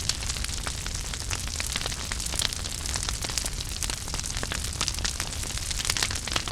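Wood fire burning in a fireplace: steady low rumble of the flames with frequent sharp crackles and pops throughout.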